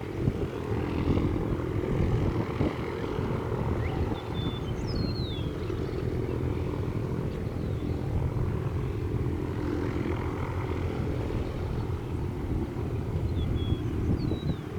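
Cessna 172M's four-cylinder engine and propeller droning steadily, mixed with a low rumble of wind on the microphone. Two brief high chirps sound about four seconds in and again near the end.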